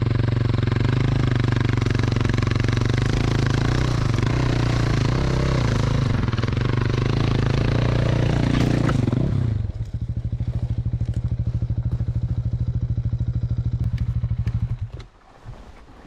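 Dirt bike engine running under steady throttle, dropping to a lower, evenly pulsing run about ten seconds in, then cutting out near the end.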